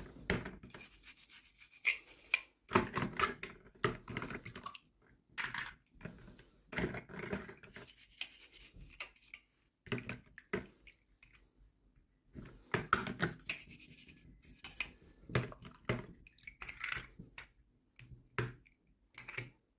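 Hands handling toy packaging and small plastic pieces: irregular bursts of rubbing, scratching and rustling with small clicks, coming in short bouts with brief pauses between them.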